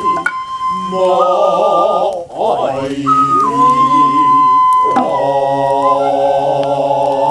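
Noh musical accompaniment: a Noh flute holds a shrill high note that shifts pitch now and then, over long wavering voices. A sharp hand-drum stroke lands about five seconds in.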